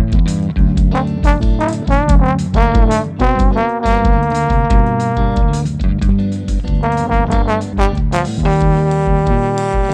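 Instrumental band music led by a trombone, which plays the melody in held notes with some bent, wavering passages, over a pulsing bass line and percussion.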